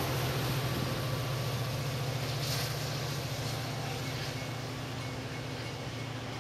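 MBTA commuter train's diesel locomotive moving away: a steady low engine hum that fades gradually as the train recedes.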